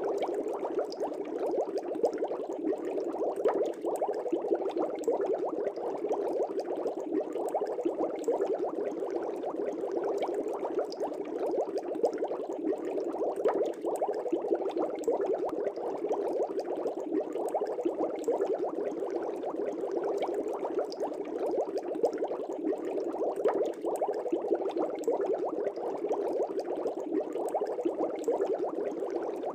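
Fish tank aeration bubbling: a steady stream of air bubbles rising and breaking at the water surface, a dense continuous burble with fine popping.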